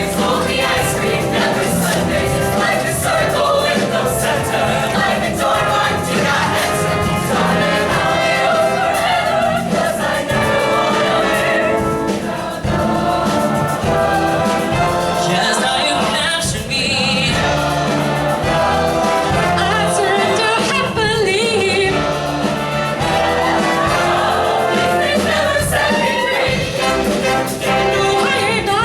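Music: a choir of voices singing a song over instrumental accompaniment, running continuously.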